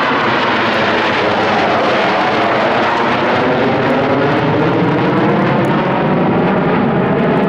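Loud, steady roar of jet aircraft flying past overhead, its tone slowly sweeping as the aircraft move across the sky.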